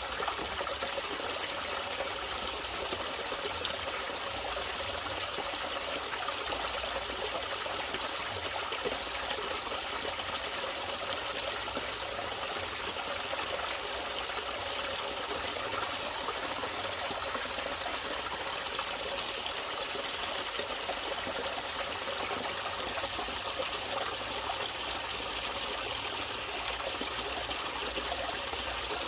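A natural stream of running water trickling steadily and without change.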